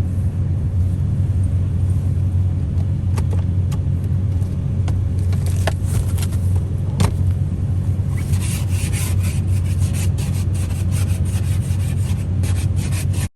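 Steady low rumble of a vehicle driving, with scattered clicks and rattles, thicker in the second half.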